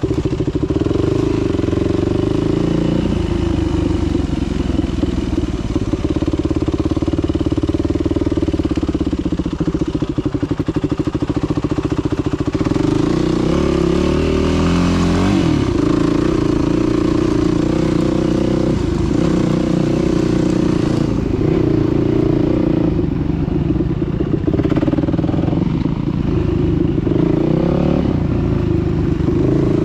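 Dirt bike engine running while riding, its pitch rising and falling as the throttle is opened and closed.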